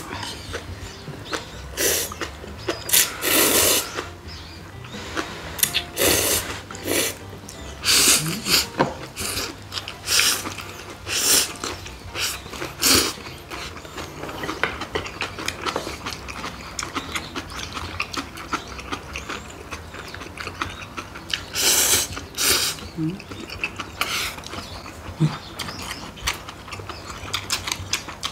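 Close-miked eating: instant ramyun noodles slurped in a string of short, hissing slurps, most in the first half and a couple more about three quarters through. Between them there is wet chewing and lip-smacking clicks from mouthfuls of noodles and kimchi gimbap.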